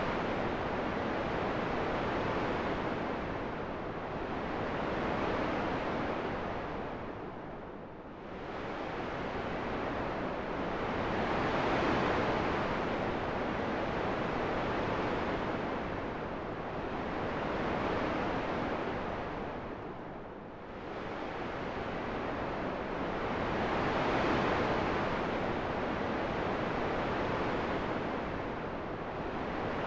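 Wind sound: a steady rushing noise that swells and fades slowly in long gusts, dipping lower about eight seconds in and again about twenty seconds in.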